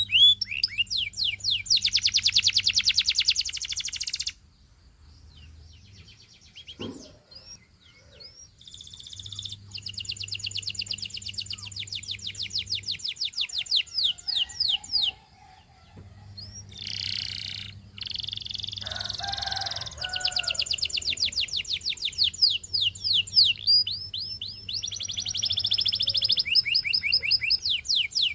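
Canary singing: fast rolling trills of rapidly repeated high notes in phrases several seconds long, broken by short pauses.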